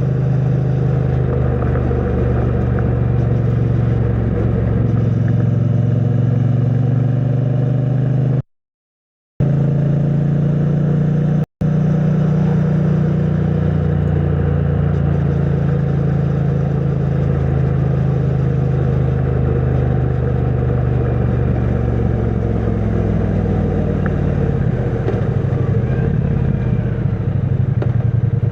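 2022 Triumph Bonneville T100's 900 cc parallel-twin engine running at a steady cruise through its stock exhaust. The sound cuts out completely for about a second a third of the way in, and briefly again a little later. Near the end the engine note falls as the bike slows, and the exhaust pulses become a slower, distinct beat.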